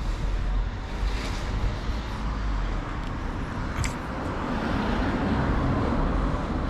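Outdoor road-traffic rumble, swelling as a vehicle goes by about two-thirds of the way through, with a single brief click just after the middle.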